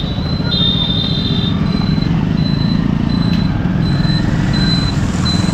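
Motorcycle engine running steadily while riding, heard through a helmet- or body-mounted action camera with wind on the microphone. From about two seconds in, a high electronic beep repeats about every 0.7 seconds.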